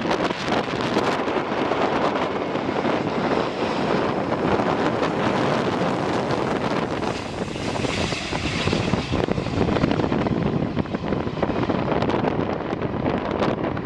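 Jet airliner engines running, heard through heavy wind buffeting the microphone; a brighter hiss swells for a couple of seconds a little past the middle.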